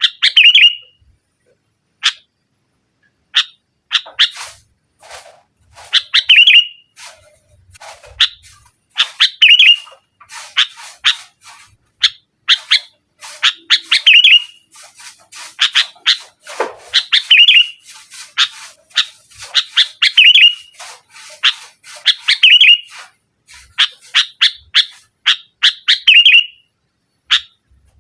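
Sooty-headed bulbul (kutilang) calling loudly and without let-up: sharp, chattering notes in quick clusters of two to five, coming faster near the end. This is the excited, rival-challenging song used to lure other bulbuls.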